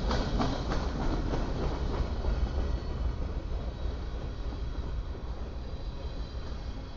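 Freight train cars rolling past: steel wheels rumbling on the rails, with a quick run of clicks over rail joints in the first second or so, then a steady rumble.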